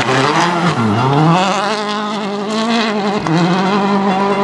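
Rally car engine passing: revs fall sharply for about a second as the driver comes off the throttle, then climb back and hold high, with a brief dip about three seconds in.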